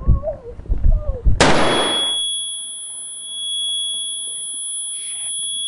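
A single revolver shot fired at close range about a second and a half in, preceded by low rumbling and a few short wavering whines. The shot is followed by a steady high-pitched ringing tone, the film effect of ringing ears after a gunshot, which carries on.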